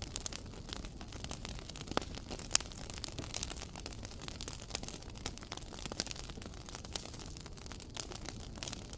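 Fire crackling in a fireplace: a soft steady hiss with many small irregular crackles and a few sharper pops, the loudest about two and a half seconds in.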